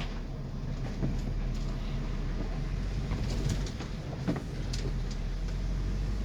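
Inside a coach bus moving slowly: steady low engine and road rumble, with several short knocks and rattles from the bus body, the loudest about 3.5 and 4.5 seconds in.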